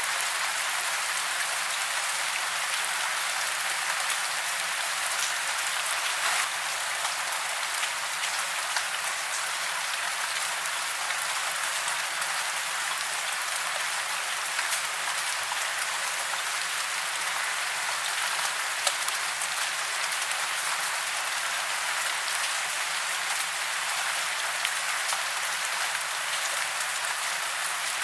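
Steady rain falling on foliage, an even hiss of many fine drops with scattered louder drips.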